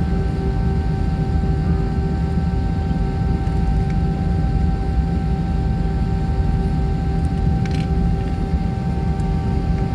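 Jet airliner cabin noise: the engines run steadily with a deep rumble and a constant whine that holds the same pitch.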